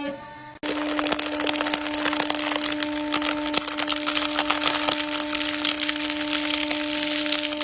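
Something being pressed and crushed, giving a dense, continuous crackling and splintering that starts abruptly about half a second in, over a steady low hum.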